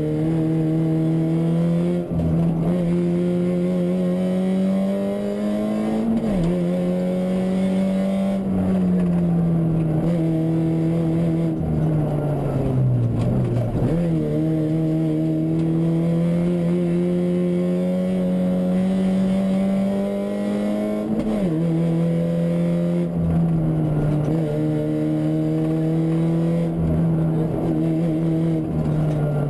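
Onboard sound of a Fiat Punto 1.8 rally car's four-cylinder engine driven hard on a stage. The engine note climbs under acceleration and drops sharply at gear changes, about four times. Near the middle it sags slowly as the car slows, then picks up again.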